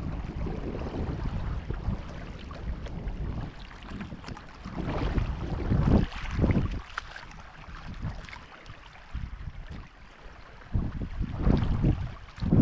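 Wind buffeting the microphone in irregular gusts, a low rumble that swells and drops, loudest about halfway through and again near the end.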